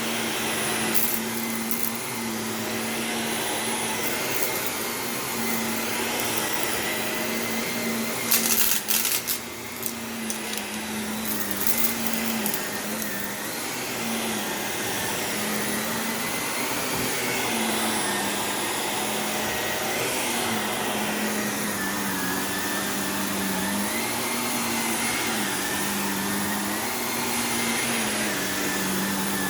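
Shark Navigator Lift-Away NV351 upright vacuum running steadily on carpet, its motor pitch wavering slightly. About eight seconds in, a few seconds of sharp crackling clicks as grit is sucked up: the carpet is crunchy in spots.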